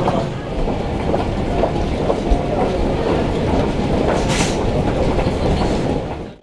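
A vehicle rumbling in motion, heard from inside, with steady rattling clatter and a short hiss about four seconds in. The sound cuts off sharply at the end.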